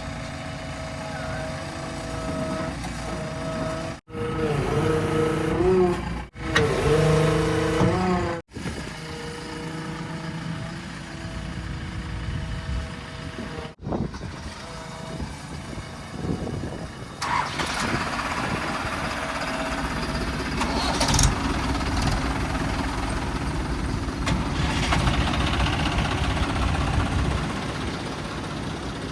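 Heavy diesel machinery running, with engine pitch rising and falling as it revs. The sound breaks off sharply several times, and a rougher, louder noise joins in from the middle on.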